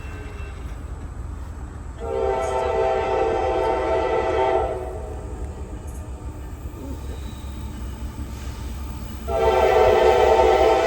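Diesel locomotive air horn sounding for a grade crossing: one long blast lasting about two and a half seconds, then a second long blast starting near the end, over a steady low rumble.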